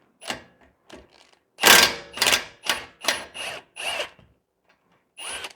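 Power tool on a 17 mm nut, run in about eight short trigger bursts, the loudest about two seconds in; a last burst near the end winds down with a falling motor whine.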